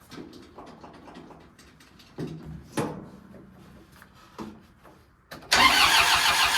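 A few clicks and knocks, then about five and a half seconds in a loud burst of about a second as the tractor's engine is cranked over in the cold.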